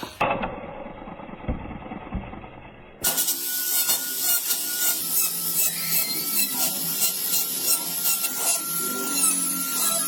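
A hand tool scraping across wood in quick, repeated strokes, starting suddenly about three seconds in after a short muffled stretch.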